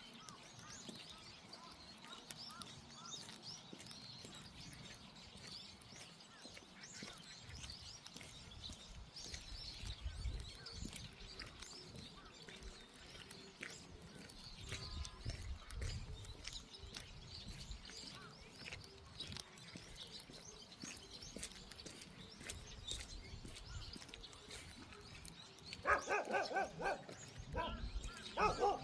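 A dog barking in a quick run of several barks near the end, over faint bird chirps.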